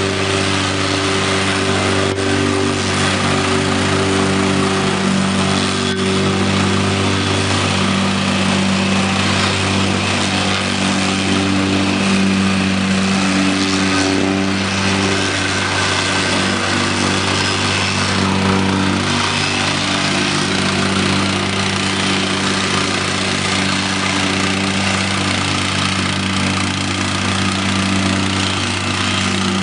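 Gasoline vibrating plate compactor with a Lifan engine, running steadily at a constant speed.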